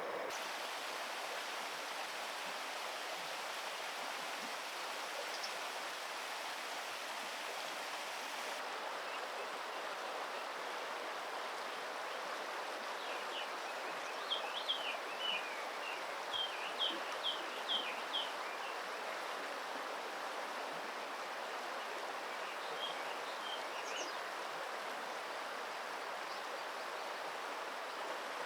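Steady rushing of stream water. Midway, a run of about a dozen short, high peeping calls, typical of an eastern spot-billed duckling, with a few fainter peeps later.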